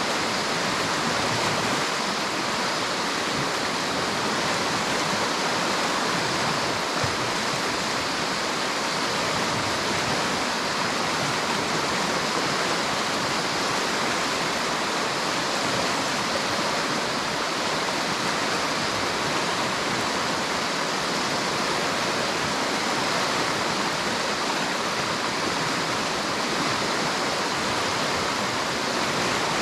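River water flowing steadily: an even, unbroken rush.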